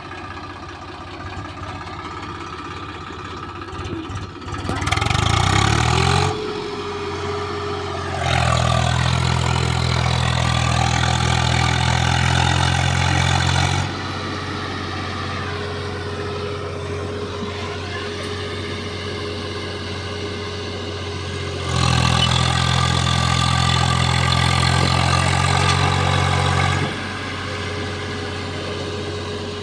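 Tractor diesel engine straining under load: it is revved hard three times, for a couple of seconds and then for about five seconds each, dropping back toward idle in between. The tractor is trying to haul a loaded trolley out of deep ruts, with the wheels not taking the load.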